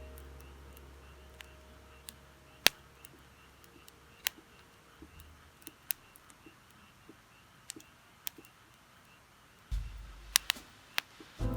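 Bonfire of burning firewood crackling, with sharp pops at irregular intervals over a soft hiss; one pop stands out loudest, and a few come close together near the end.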